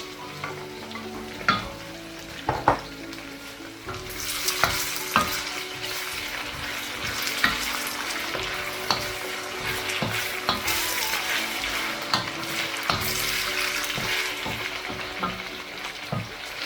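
Boiled beef stir-frying in a pan of olive oil with onions and garlic: a steady sizzle, with a utensil clicking and scraping against the pan as it is stirred. The sizzle gets louder about four seconds in.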